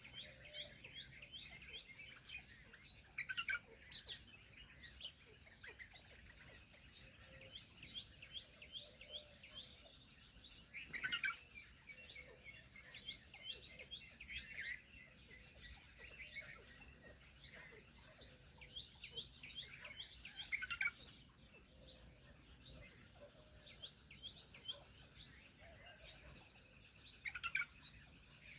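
Small birds chirping steadily: a continuous run of short, high chirps, about one to two a second, with a few louder bursts of chirping.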